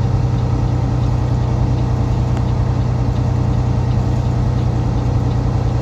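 Semi truck's diesel engine running at a steady speed, a low even drone heard from inside the cab; the pitch drops slightly near the end.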